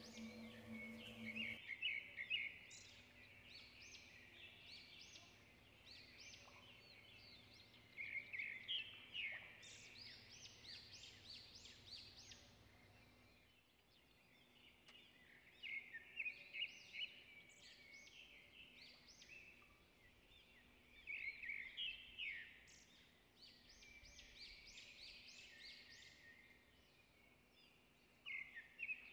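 A small songbird chirping: five bursts of quick, bright, high notes about six seconds apart, faint. A music track's held note cuts off just after the start.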